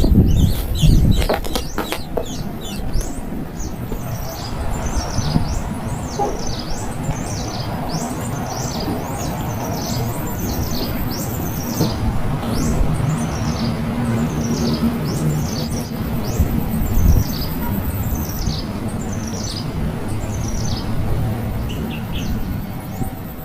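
Small birds chirping: a rapid series of short, high chirps, each sliding down in pitch, about two a second, fading out near the end, over a low rumbling background. A few sharp knocks come right at the start.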